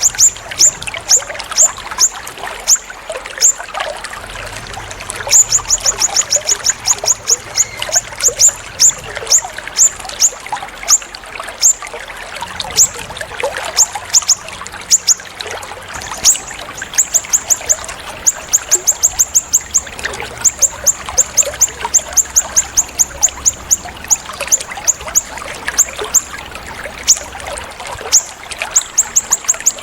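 A songbird calling in high, sharp, down-slurred notes, sometimes in fast runs and sometimes as spaced single notes, over a steady trickle of running water.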